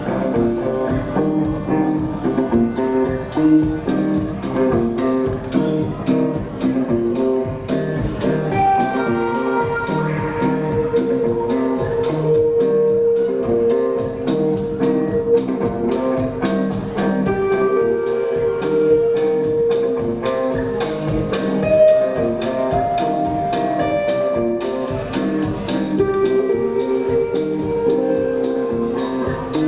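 Live instrumental music: guitars play over a drum kit keeping a steady beat, with long held notes through the middle.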